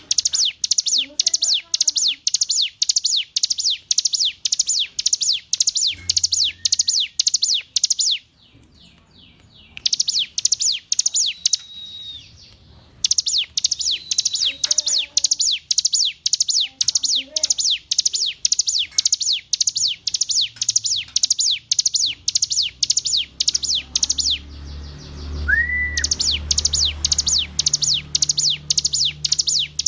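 Hill prinia (ciblek gunung) singing a fast, even series of high, down-slurred notes, about three a second, in long runs broken by brief pauses.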